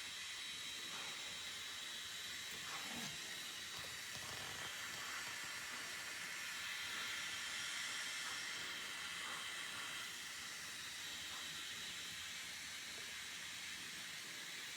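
Handheld hair dryer blowing steadily on its high setting, a steady airy hiss with a faint motor whine. The speaker says the dryer doesn't work on low and only works on high.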